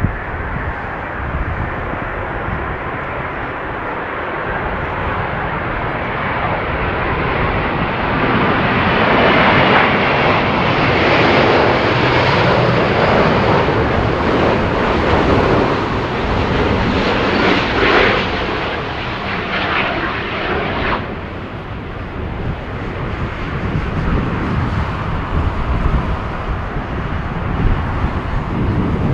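Jet airliner passing close on its landing approach, the engine roar swelling to a peak and then cutting off sharply about 21 seconds in. Strong gusting wind buffets the microphone with a low rumble throughout.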